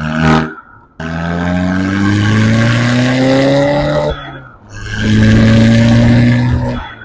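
Car engine and exhaust under hard acceleration. There is a short blip at the start, then the revs climb steadily for about three seconds. After a brief drop, like a gear change, the engine is held loud at steady revs for about two seconds before letting off.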